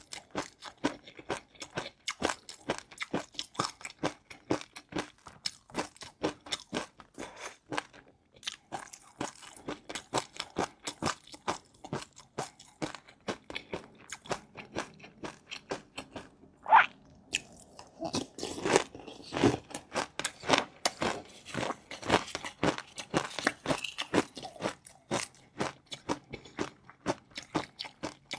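A person chewing crunchy food close to the microphone: a steady run of crisp crunches, several a second, with one louder bite about seventeen seconds in and fuller, denser crunching after it.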